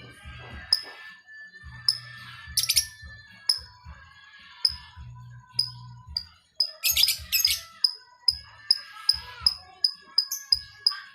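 Lovebird calls: sharp, high ticks repeating about three times a second, broken by two loud shrill chirp bursts, about three seconds in and again about seven seconds in. The ticks are the rapid 'ngetik' ticking that lovebirds are trained to sing.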